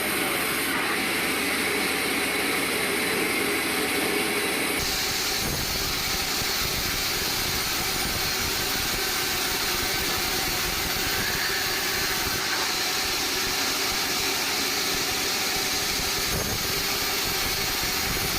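Band sawmill machinery running, a steady mechanical noise. It changes abruptly about five seconds in, with more low rumble after.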